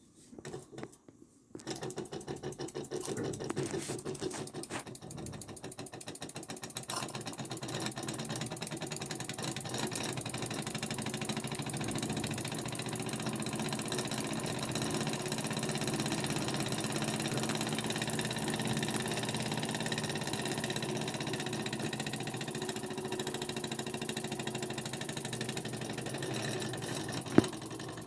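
Burnac Vulcan model toy steam engine starting up about a second and a half in and running with a fast, steady beat that grows louder over the next several seconds. A single sharp click sounds near the end.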